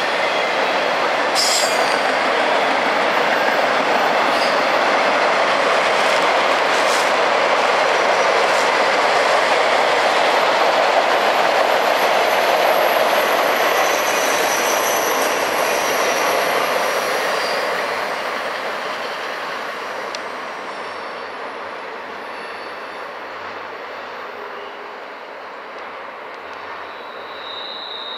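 Norfolk Southern freight train rolling past: a steady rumble of steel wheels on rail with faint high wheel squeal and a few sharp clacks. The noise fades over several seconds about two-thirds of the way in as the train moves off.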